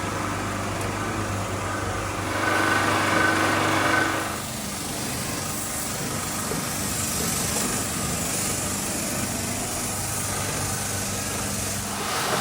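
A motor or engine running steadily with a low hum. A louder, higher whine comes in for about two seconds a couple of seconds in, then the sound settles into a more even hiss.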